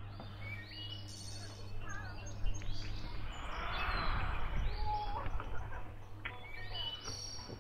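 Small birds chirping, many short calls scattered throughout, over a steady low hum.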